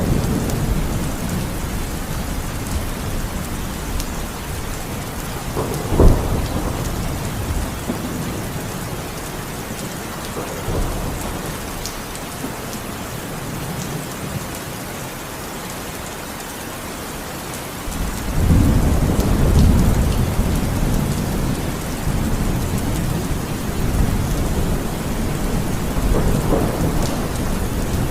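Heavy rain falling steadily, with a sharp thunderclap about six seconds in and a long low roll of thunder starting about two-thirds of the way through and slowly dying away.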